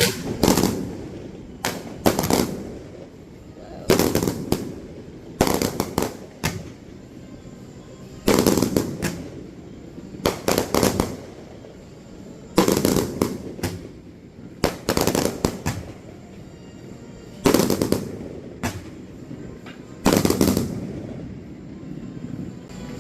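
Aerial firework shells bursting one after another, about one every two seconds, some in quick clusters, each loud boom trailing off in a rumble.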